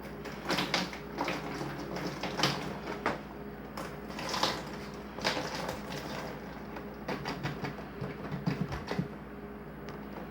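Irregular rubbing and scraping noises with a few light knocks, as of wiping and handling a cooler, over a steady low hum.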